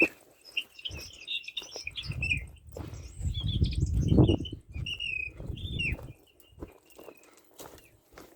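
Small birds chirping in short, quick calls, over rustling, knocks and low rumbling handling noise close to the microphone; it all dies down about six seconds in.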